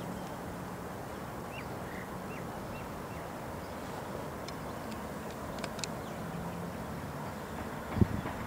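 Steady background hush with a few short, rising bird chirps in the first few seconds and some faint ticks later, then a single thump near the end.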